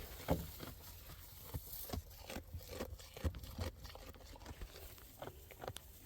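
Horses eating grain from buckets: faint, irregular crunching and clicking as they chew.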